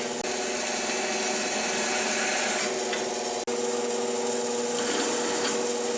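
Power tool with an electric motor running steadily while cutting 1/4-inch steel plate, a steady motor hum under a bright cutting hiss. It breaks off very briefly twice.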